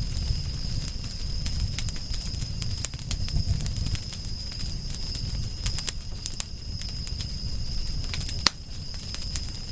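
Campfire burning, with many scattered crackles and pops over a low rumble; one sharper pop comes near the end. A steady high-pitched tone sits underneath.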